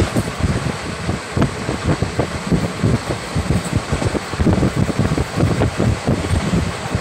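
Running noise of a moving express train heard from on board: a steady rumble of wheels on rails, with wind buffeting the microphone.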